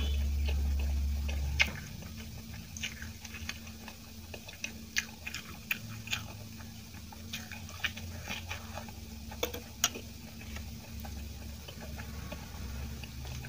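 Close-miked mouth sounds of chewing soft steamed idli with chutney: scattered small wet clicks and smacks. A low hum stops abruptly with a sharp click about a second and a half in.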